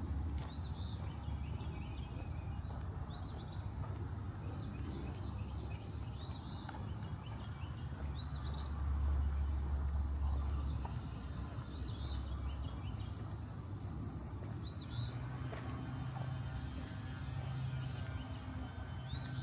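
A bird repeating one short, high chirp about every two to three seconds, over a steady low rumble that swells about nine seconds in.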